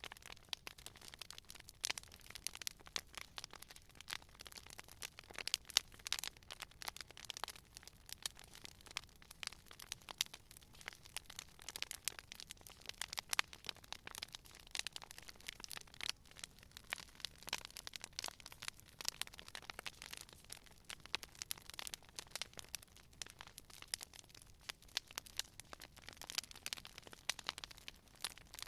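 Campfire crackling: a dense, irregular run of sharp pops and snaps from burning wood, with no steady roar beneath.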